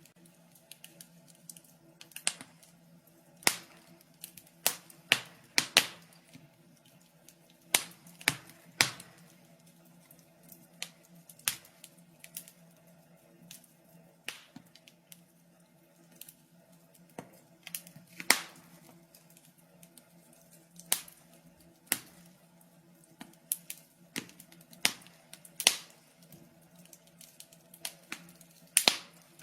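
Wood fire crackling in a fireplace: irregular sharp pops and snaps, a few loud ones among many small clicks, over a faint steady low hum.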